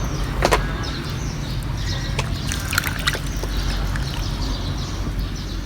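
Shallow water sloshing and splashing as a hand reaches in and lifts out a small toy dump truck, with a few sharp clicks and drips scattered through, the sharpest about half a second in and around three seconds in.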